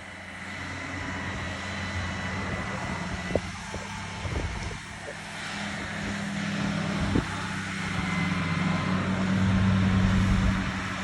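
Case International tractor engine running steadily, getting louder near the end, with a couple of short sharp knocks.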